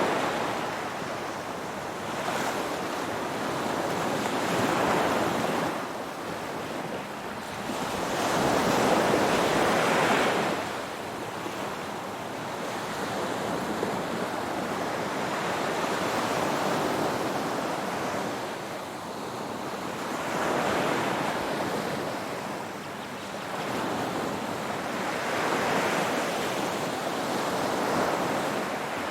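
Ocean waves washing onto a shore. Each wave swells to a rushing surge and then ebbs, the surges coming a few seconds apart, with the biggest about eight to ten seconds in.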